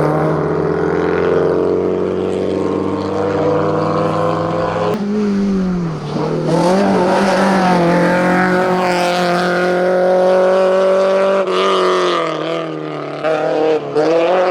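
Ford Fiesta XR2 race car engine pulling hard at high revs, its note dipping sharply about five seconds in and again near twelve seconds as it changes gear, then a few quick stutters of the throttle near the end.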